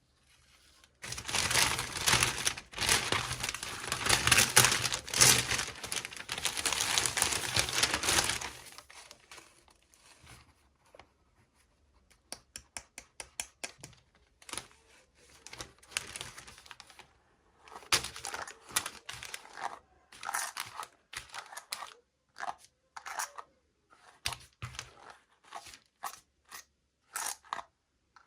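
Toy packaging being torn open and crinkled: about seven seconds of dense, loud crinkling and tearing, then scattered short crinkles and small clicks as the contents are handled.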